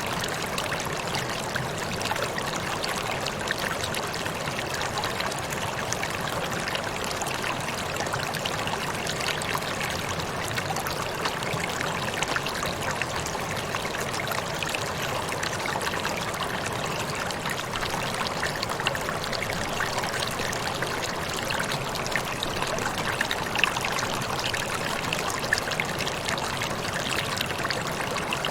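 Waterfall: water falling and splashing steadily, an even rushing with small splashes throughout.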